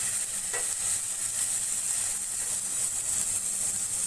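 Chopped green chillies, ginger paste and cumin seeds sizzling steadily in a little hot oil in a non-stick frying pan. A silicone spatula stirs them once, about half a second in.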